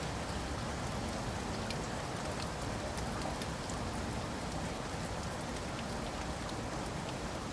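Steady rain falling, a constant hiss with many small drop ticks striking a surface.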